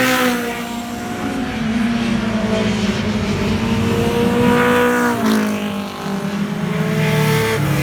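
Pro-4 race cars passing by on the oval, their engines swelling as each car approaches, then dropping in pitch as it goes past. There are passes right at the start, about five seconds in, and again near the end.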